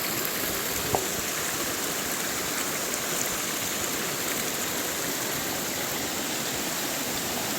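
River water flowing, a steady even rush, with one brief click about a second in.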